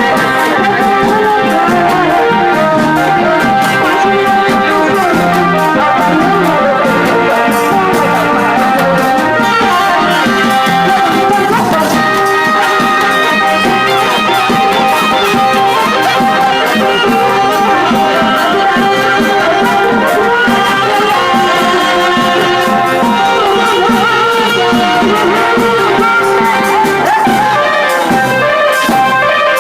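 Thai trae wong brass band playing a continuous tune, with brass instruments carrying the melody.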